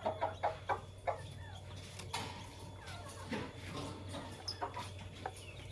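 Fischer's and masked lovebirds chirping and chattering: a quick run of sharp chirps in the first second, then scattered quieter calls and squawks.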